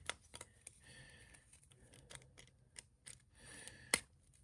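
Faint scattered clicks and ticks of a plastic action figure and its accessories being handled and posed. One sharper click comes about four seconds in.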